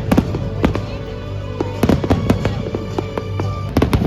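Fireworks going off in a rapid, irregular series of sharp bangs, with music playing underneath.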